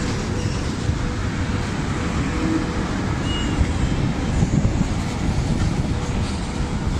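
A train passing close by: a steady, loud rumble with a faint steady hum.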